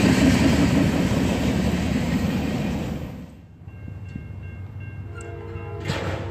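Freight train rolling away on the main line: a steady rumble of wheels on the rails that fades, then cuts off about three seconds in. After that it is much quieter, with faint steady tones and a short click near the end.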